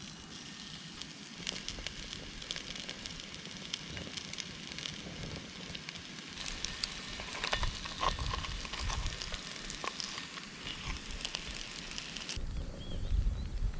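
Food sizzling over a campfire, with many fine crackles and pops. Near the end it cuts off abruptly to a low rumble with a few clicks.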